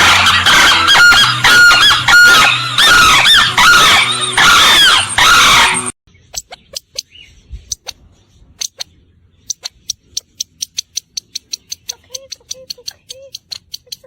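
A loud, dense chorus of many birds calling over one another, cut off abruptly about six seconds in. Then scattered sharp clicks that turn into a rapid, regular ticking, about four or five a second, with a few soft low notes near the end.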